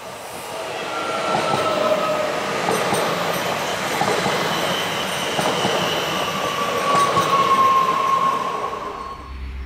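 SNCF AGC regional multiple-unit train passing close at speed. Its rushing noise builds over the first two seconds, holds, and fades near the end, with a high whine that slowly drops in pitch and a few light clicks.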